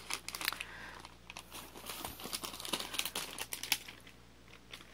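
Snack packaging crinkling and rustling as it is handled, a run of irregular small crackles and clicks that eases off near the end.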